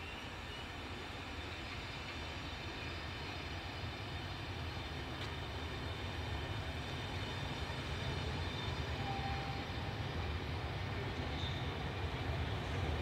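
A train running, its low sound growing steadily louder as it comes closer.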